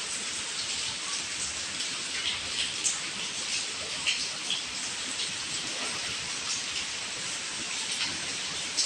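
Heavy rain falling steadily, with scattered louder individual drops and drips striking a surface.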